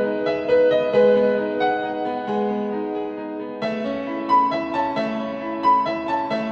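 Soft background piano music: a slow sequence of sustained notes that moves to a new chord about three and a half seconds in.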